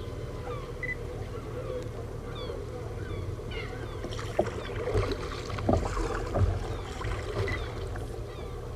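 Sea water sloshing around a sit-on fishing kayak, over a steady low rumble of wind and swell, with several knocks and splashes against the hull from about halfway through.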